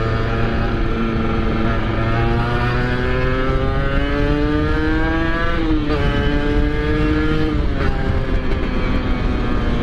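Two-stroke motorcycle engine, the rider's Kawasaki Ninja R, accelerating on the road. Its pitch climbs slowly, then drops twice as it shifts up, about five and a half seconds in and again near eight seconds, and it holds steady after that.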